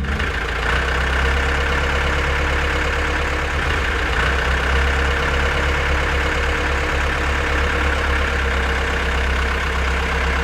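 Small engine of a DIY mini tractor idling steadily, with a low, rapidly pulsing rumble.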